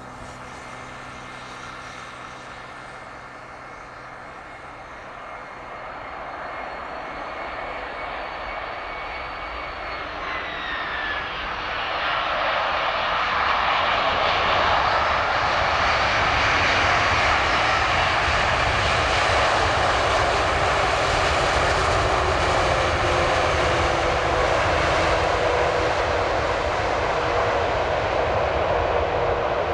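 Airbus A340-300's four CFM56 turbofan engines on a landing approach. A steady whine grows louder, drops in pitch about ten to twelve seconds in as the airliner passes, then gives way to a louder steady roar that holds to the end.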